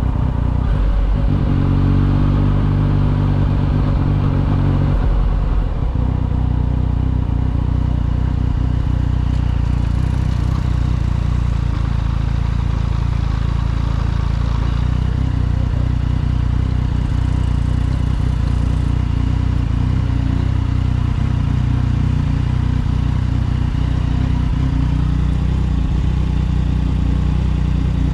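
Motorcycle engine running with a steady, even note, as when riding at a constant speed. For the first few seconds there is an extra, higher-pitched layer to the engine sound, which drops away about five seconds in.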